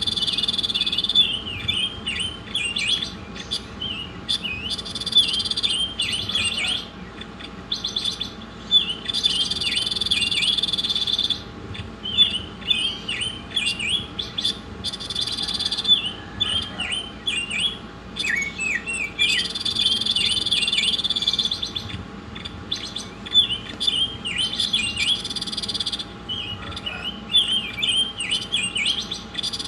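A songbird singing in repeated cycles: a steady buzzing trill of about two seconds, then a run of quick, rapid chirps, over a faint steady hum.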